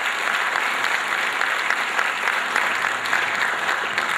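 Audience applause, a dense steady clapping that begins to fade near the end.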